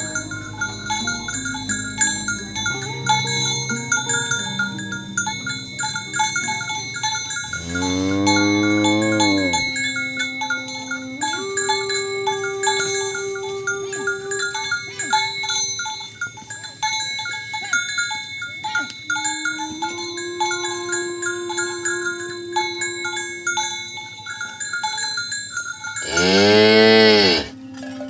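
Cows mooing: two loud, long moos, each rising and then falling in pitch, one about eight seconds in and one near the end. A steady background of ringing, bell-like tones runs throughout.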